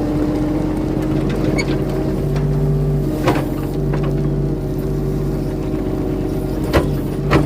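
Mini excavator's diesel engine running steadily under work, its note dipping slightly at the start and rising again about four seconds in. Three sharp clunks come through, one about three seconds in and two near the end.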